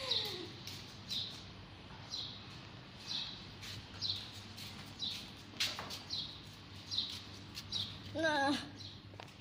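A bird chirping a short, falling single note over and over, about once a second, with a brief wavering voice near the end.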